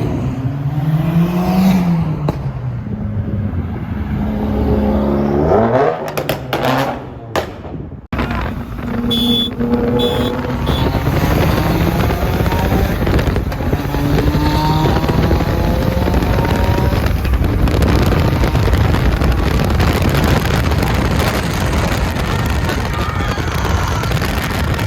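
Car engines revving and accelerating, their pitch rising and falling. There is an abrupt break about eight seconds in, followed by more engine and road noise.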